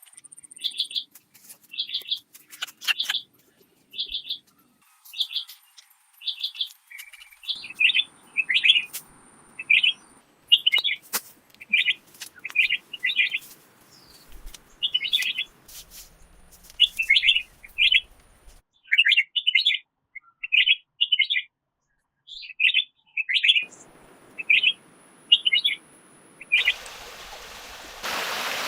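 A small bird calling over and over in short chirps, about one or two a second. Near the end a steady rushing noise, like running water or rain, comes in abruptly.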